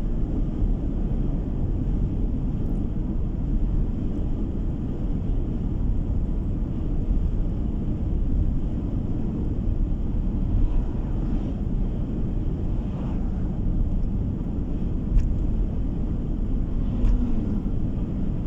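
Steady low road rumble of a car driving, tyre and engine noise heard from inside the cabin.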